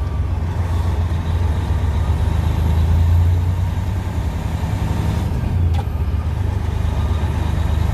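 Semi truck's diesel engine running steadily with a deep, even drone, heard from inside the cab while driving with about 17,000 pounds of load.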